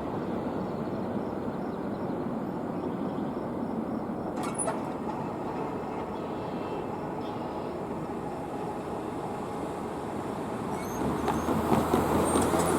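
Freight train cars rolling past on the rails, a steady rumbling rattle with one sharp clank about four and a half seconds in. It grows louder near the end.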